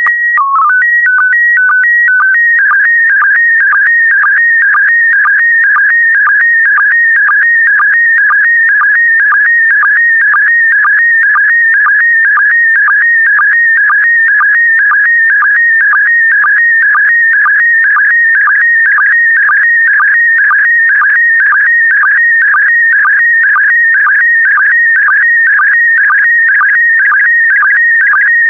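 Slow-scan TV (SSTV) image transmission in PD120 mode: a loud, high warbling tone signal. It opens with a few short steady header tones and a quick stepped code that names the mode, then settles into scan-line tones that repeat about twice a second as the picture is sent line by line.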